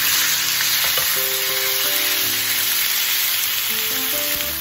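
Raw chicken mince sizzling steadily in hot oil in a frying pan as a spatula stirs it.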